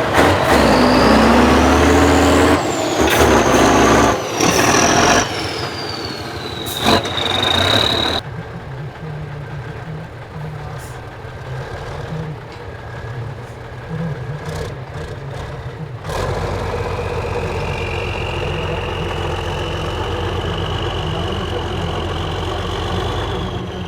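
Heavy off-road trial trucks' diesel engines running under load across several cut-together shots. Loud revving with a whine that rises and falls comes first, then quieter running from about 8 seconds in. From about 16 seconds in there is a steady engine note with a high whine over it.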